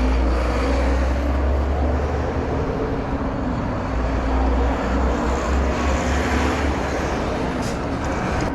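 Street traffic noise heard from a moving bicycle, with a heavy uneven rumble of wind on the microphone underneath.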